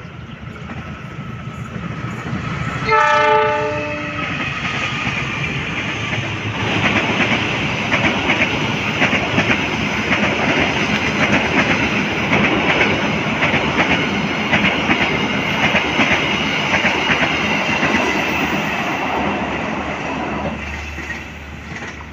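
A CC 206 diesel-electric locomotive hauling a passenger train sounds its horn once, about a second long, as it approaches. Its coaches then pass close by, the wheels clattering rapidly on the rails over a steady rumble, which fades near the end.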